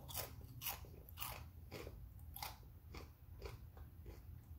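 Close-up crunching of a bite of crisp microwaved cheese tostada being chewed, about two crunches a second, getting fainter in the second half.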